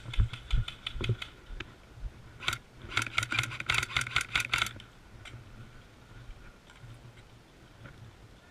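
Airsoft gun firing a rapid string of shots, sharp clicks at about six or seven a second for under two seconds, about three seconds in, after a single shot. Low thumps of movement come before them.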